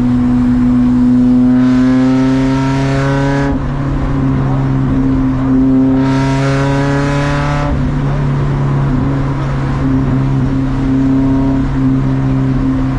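Race car engine under load, its pitch climbing through two pulls that each end abruptly, the first after about three seconds and the second around the middle, then running at a steady pitch.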